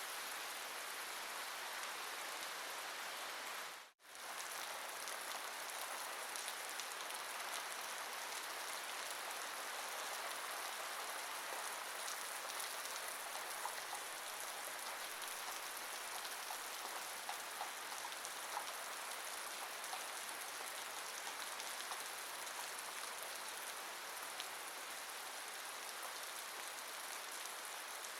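Steady rain falling, an even hiss with a few faint drip ticks. It cuts out for a split second about four seconds in.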